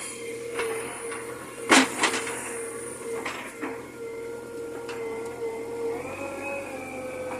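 JCB 3DX backhoe loader running with a steady drone, punctuated by several sharp clanks and knocks, the loudest about two seconds in. About six seconds in, the machine's pitch rises a little.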